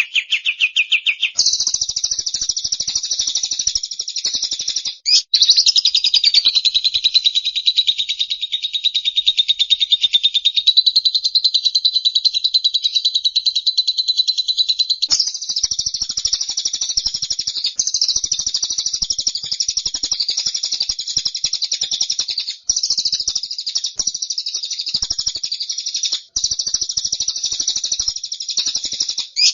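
A small songbird singing long, unbroken runs of rapid-fire notes packed tightly together, high-pitched and steady, with a few brief breaks and small shifts in pitch.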